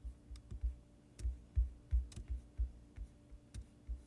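Computer mouse and keyboard clicks, irregular sharp ticks mixed with soft low thumps about three times a second, over a faint steady hum.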